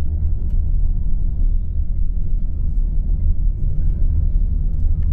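Tour bus cabin noise: the coach's engine and tyres giving a steady low rumble on the road, with a few faint clicks.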